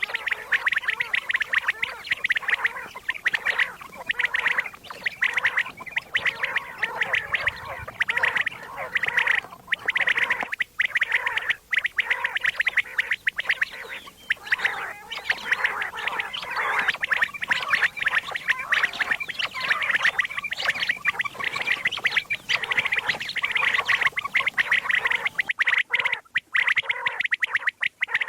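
Common quail calling: a continuous, rapid, gargling chatter with a few brief pauses.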